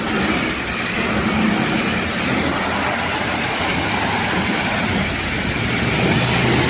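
Steady hiss of a car wash's high-pressure wand spraying, over a steady low motor hum.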